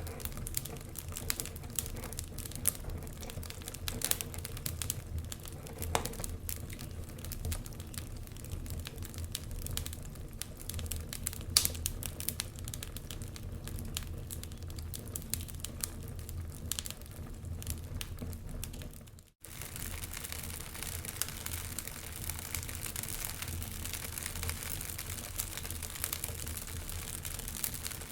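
Wood fire crackling in a fireplace, with scattered sharp pops and snaps over a steady low rumble and hiss. The sound cuts out for a moment about two-thirds of the way through, then comes back with a stronger hiss.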